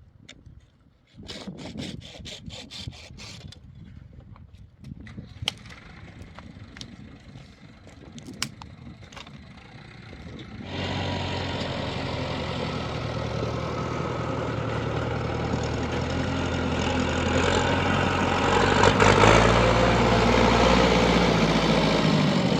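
Scattered clicks and knocks, then about halfway through an engine starts and runs steadily, growing louder near the end.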